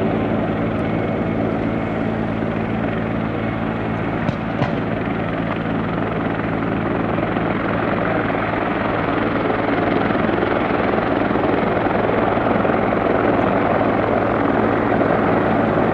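Piaggio P.180 Avanti's twin Pratt & Whitney PT6A turboprops running: a steady propeller drone with a low hum under a rushing roar, a little louder in the second half.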